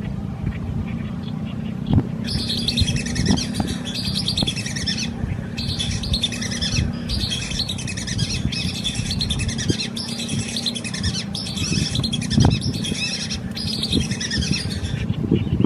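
Birds singing in a run of short, high repeated phrases with brief gaps between them, over a steady low rumble.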